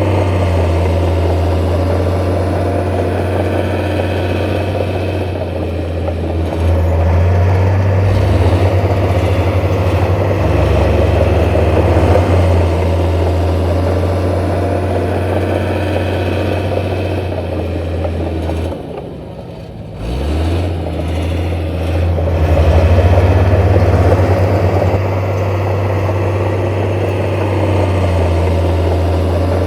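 Heavy construction-machine diesel engine running steadily under load. About two-thirds of the way through it eases off sharply for a moment, then picks back up.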